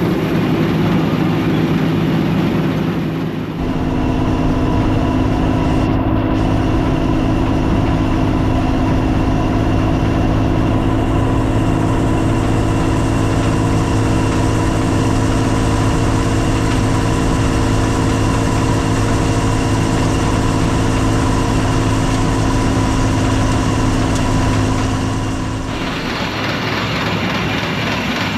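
Combine harvester engine running steadily. A second, higher drone joins about three and a half seconds in and drops out near the end.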